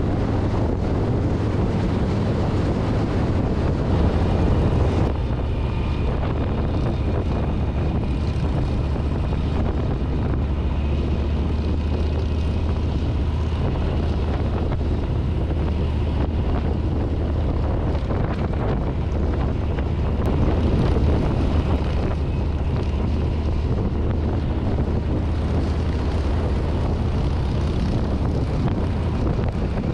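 2024 Harley-Davidson Street Bob's V-twin engine running steadily at riding speed, with wind rushing over the handlebar-mounted microphone.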